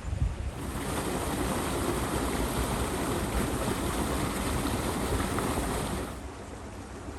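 Rushing water: a steady hiss of dammed-up creek water pouring through a freshly cleared culvert. It comes in about half a second in and cuts off sharply about six seconds in, with a low wind rumble on the microphone underneath.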